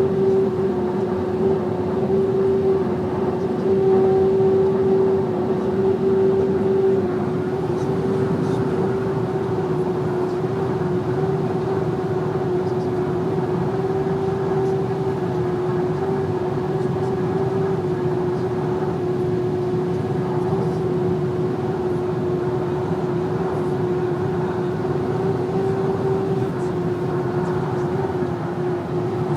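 VW Amarok pickup driving at a little over 120 km/h with a steady whistle over the road and engine noise. The whistle holds one pitch and is a little louder in the first few seconds.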